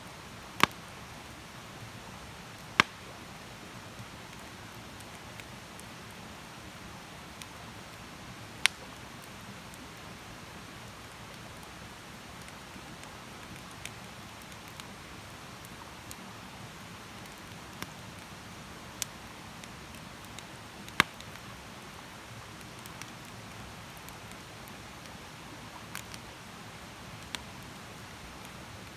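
Wood campfire crackling: a steady hiss broken by sharp single pops every few seconds, four or five of them much louder than the rest.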